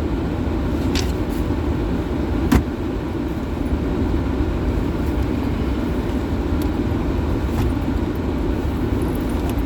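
Steady low rumble of a car heard from inside the cabin. A sharp click sounds about two and a half seconds in, with a fainter one near the start.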